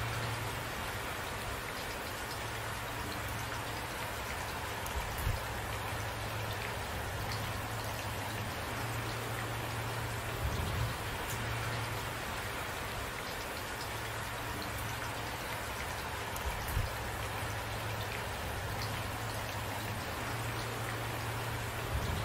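Steady rain falling, an even hiss of drops, with three brief low thumps spread through it.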